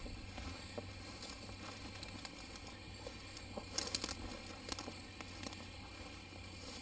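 Footsteps crunching and crackling through dry leaves and brush, with a quick cluster of crackles about four seconds in.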